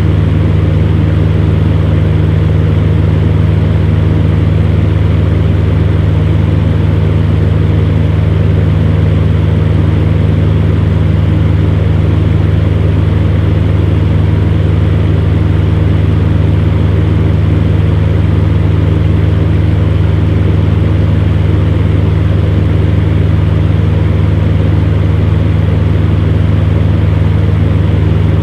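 Electric fan heater running: a steady, unchanging low hum with a whooshing rush of air.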